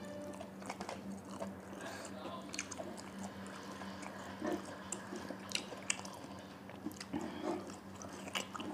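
Close-miked chewing and wet mouth clicks from eating rice and fried chicken by hand, in short irregular smacks, over a faint steady hum.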